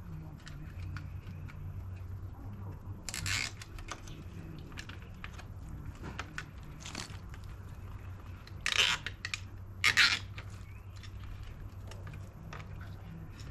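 Nylon tie wraps being pulled tight around wiring in a Tesla Wall Connector: four short rasping zips a few seconds apart, the loudest two close together about nine and ten seconds in, over a steady low hum.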